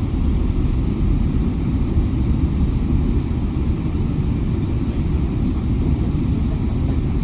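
Steady low rumble inside a jet airliner's cabin: engine and airframe noise with the plane on the ground before takeoff.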